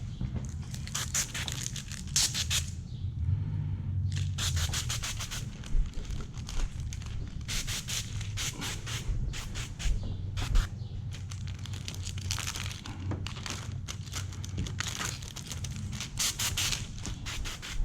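Repeated short scraping and rubbing strokes, each under a second, over a steady low hum.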